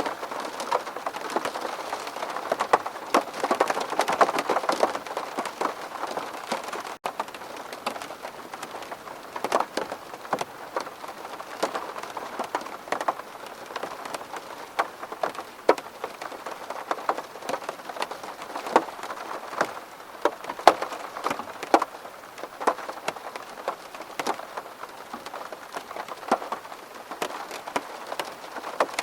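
Steady rain pattering on window glass, a dense hiss with many distinct drop ticks, broken by a momentary gap about seven seconds in.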